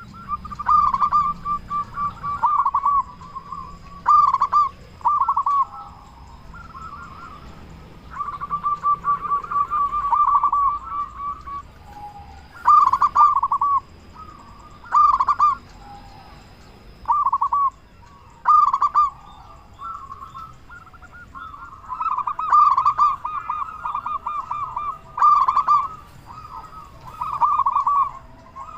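Local zebra dove (perkutut) in full song: phrase after phrase of rapid rolling coos, repeated with short pauses between them.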